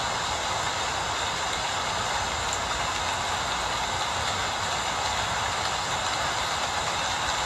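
Steady rain falling: a continuous, even hiss with no breaks.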